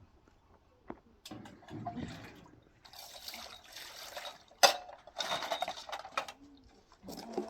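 Water pouring and splashing in two short spells, with a sharp knock between them and a few small clicks.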